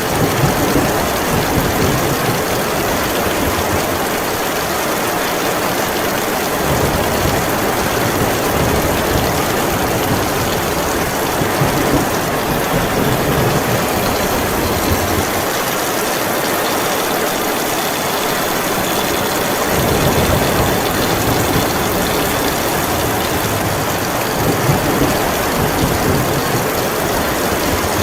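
Heavy rain falling steadily, with a low rumble underneath that swells and fades several times.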